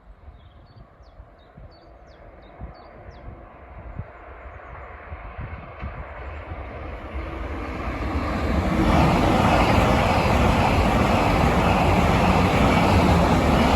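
A train approaching on the high-speed line, its rolling noise swelling from faint to loud over about eight seconds, then staying loud as it passes. A bird chirps a few times in the first seconds.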